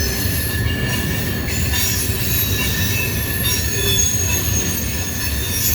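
Freight train's cars rolling past with the brakes applied: a steady rumble of wheels on rail with several high, thin squealing tones from the braking wheels.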